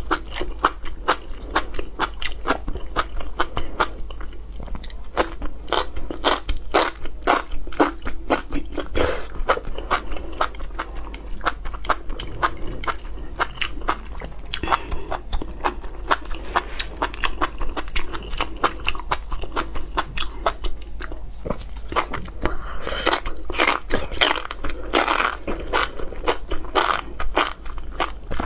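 Chewing and biting of spicy enoki mushrooms: a dense, continuous run of crunching and mouth clicks, busiest near the end.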